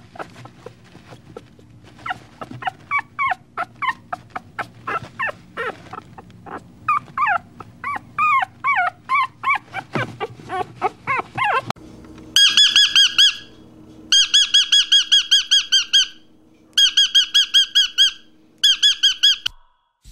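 Dachshund puppy giving a long string of short, high yips and whines, irregular and bending in pitch. After about twelve seconds these give way to a fast, even trill of high chirps that comes in four bursts.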